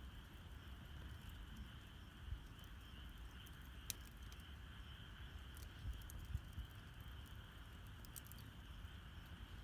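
Campfire burning quietly, with a few sharp crackles and pops from the wood, the clearest about four seconds in and a cluster near eight seconds. Under it runs a steady, faint high-pitched chorus of the night outdoors and a low rumble.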